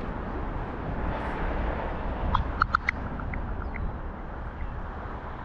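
Low wind rumble on the microphone, with a quick run of bird chirps about two and a half seconds in, followed by a few fainter notes.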